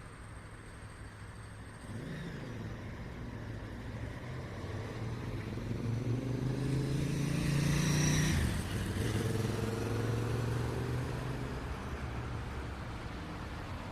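Street traffic with one motor vehicle accelerating past: its engine note rises and grows louder, is loudest about eight seconds in, then drops to a lower pitch and fades away.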